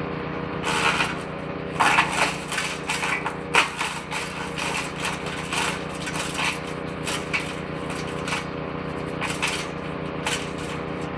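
Petrol woodchipper-shredder with its engine running steadily while branches are fed into the shredder drum, which chews them in irregular crunching, crackling bursts, loudest in the first few seconds and thinning out toward the end.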